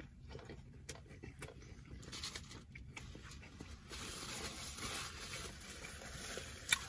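Close-miked chewing of a mouthful of toasted turkey club panini, with faint wet clicks and crackles. From about four seconds in a paper napkin rustles against the mouth, and there is one sharp click near the end.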